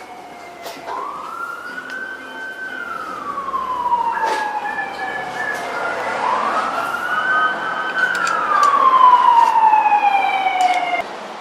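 Emergency vehicle siren wailing: the pitch rises slowly, holds and falls away in long cycles of about five seconds, loudest near the end, then cuts off suddenly. A few sharp clicks sound over it.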